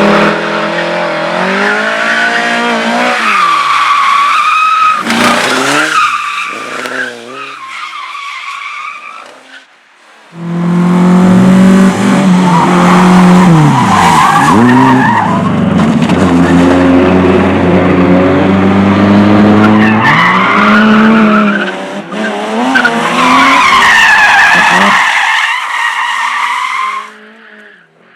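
Slalom cars running hard through the course, engines revving up and down between gear changes and braking, with tyres squealing. One run fades out over the first ten seconds. After a sudden break another car is heard close and loud, revving and squealing, then fading near the end.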